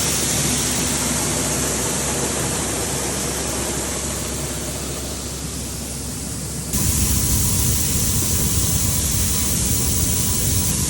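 Tractor running steadily while pulling the grain cart through the corn harvest, heard as an even rushing drone. It gets suddenly louder about seven seconds in.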